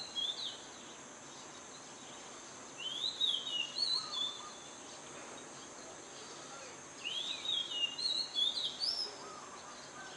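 A songbird sings short, warbling whistled phrases that rise and fall, three times a few seconds apart, over steady background noise.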